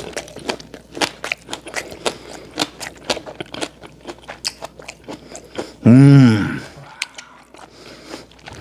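Close-up crunching and chewing of a mouthful of seaweed-wrapped yellowtail sashimi with pickled radish and pickled shallots, the microphone held near the mouth: sharp crunches several times a second. About six seconds in, a short, loud hum from a voice rises and falls in pitch.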